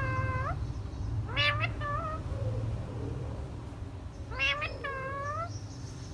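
Three meows, each a pitched call that rises and then levels off, about a second long, over a steady low hum.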